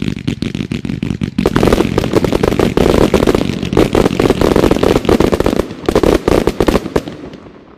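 An 81-shot X-shaped consumer fireworks cake firing in rapid succession: a dense, almost continuous stream of launch thumps and bursts that thins and dies away near the end.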